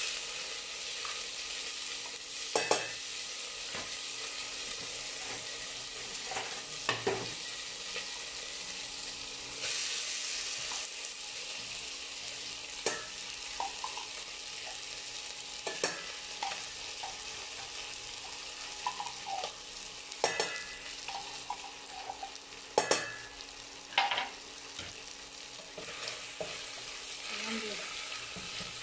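Corned beef sizzling as it fries in hot oil in a stainless steel pot: a steady hiss, broken by a handful of sharp knocks of the spatula against the pot.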